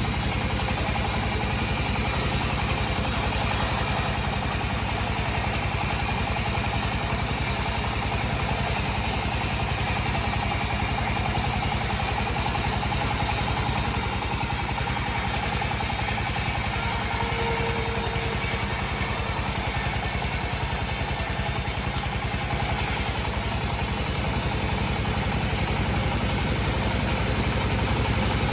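Sawmill bandsaw machine running steadily with a constant engine-like drone.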